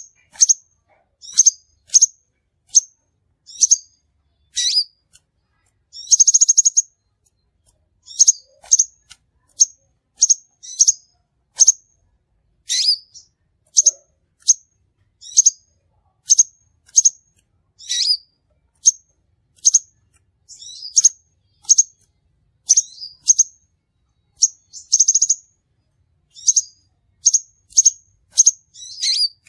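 Crimson sunbird calling: short, sharp, high-pitched chips repeated about once or twice a second, broken twice by a longer buzzy trill, one about six seconds in and another later on.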